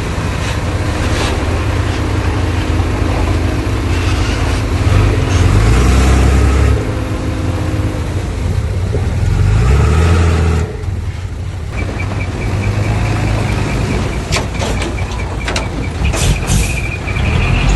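Diesel engines of heavy earthmoving machinery at work. A bulldozer and dump trucks run under changing load, swelling and easing, with a sudden drop about ten and a half seconds in. Sharp clicks and a thin metallic squeal come near the end.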